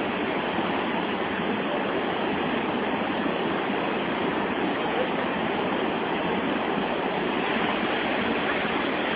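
Steady rushing of water from a large waterfall and rapids.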